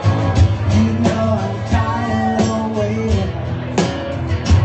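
Live rock band playing: drum hits over a steady bass, with a melody line running above.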